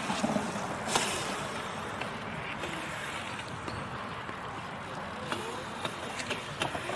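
Small dirt bike riding on skate ramps: a steady run of motor and tyre noise, with a sharp knock about a second in and a few lighter ones near the end.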